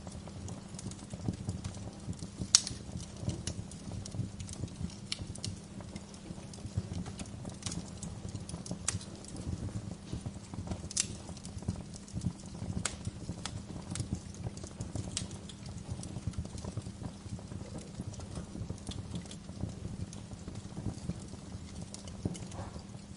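Wood log fire crackling in a fireplace: frequent sharp pops at irregular intervals, the loudest a little over two seconds in, over a steady low rumble of the flames.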